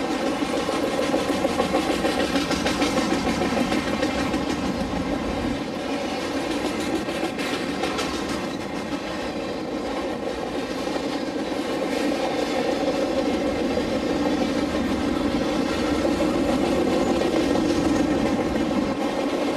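Freight train boxcars rolling past on steel wheels: a steady, loud rumble and rattle of the cars, with a few clacks of wheels over rail joints around the middle.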